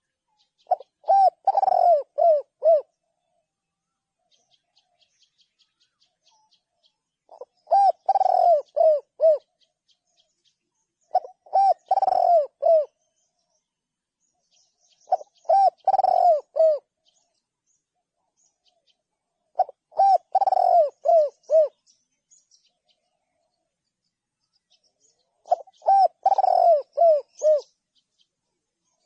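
Spotted dove cooing: six phrases a few seconds apart, each a run of four or five low, falling coos lasting about two seconds. Faint high chirps come in the gaps between phrases.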